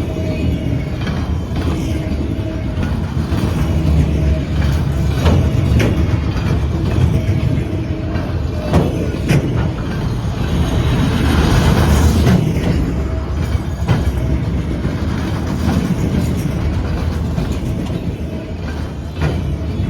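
Freight train cars rolling past, a steady low rumble with repeated clicks of wheels passing over rail joints and a swell of wheel and rail noise about halfway through.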